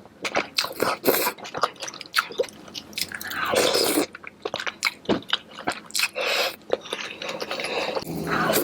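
Close-miked eating sounds of a person eating king crab in a creamy cheese sauce: wet chewing with many short sharp clicks and a few longer, noisier wet stretches, the longest a little past the middle.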